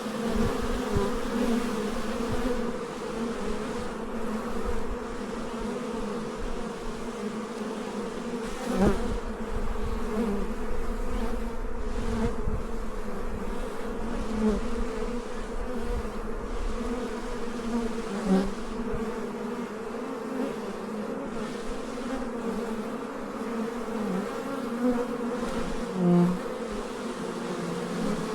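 Bees buzzing in dense, steady flight around a very active hive. Single bees buzz louder as they pass close by, a few times.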